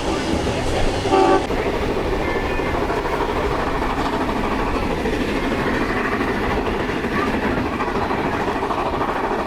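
Steam-hauled train running at speed, heard from inside a carriage: a steady rumble and clatter of wheels on track, with a short whistle note about a second in.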